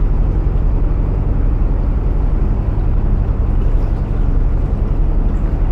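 A narrowboat's diesel engine running steadily under way, a low even drone.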